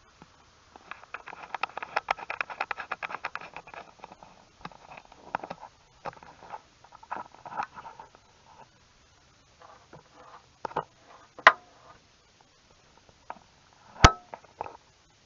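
Hand tools working on car body hardware while the hood is unbolted. A dense run of rapid metallic clicking starts about a second in and lasts about three seconds, then comes scattered clicking and two sharp metal clanks, the louder one near the end.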